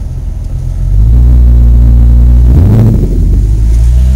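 Car engine pulling hard under acceleration, loud and steady, with a sharp break and jump in its note about two and a half seconds in, as at a gear change.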